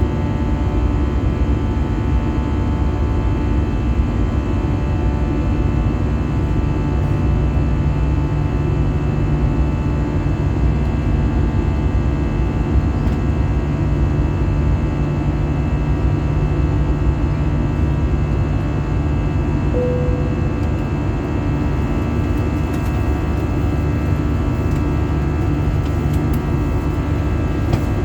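Airbus A320-214's CFM56 jet engines and airflow heard from inside the cabin: a steady drone with many steady engine tones layered over a low rumble.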